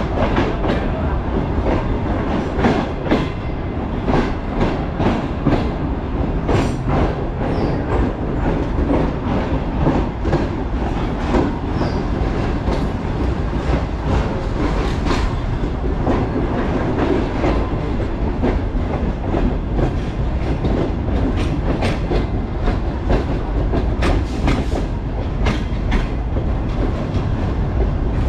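A moving passenger train's wheels running on the track: a steady rumble with sharp, irregularly spaced clacks as the wheels cross rail joints, several of them close together near the end.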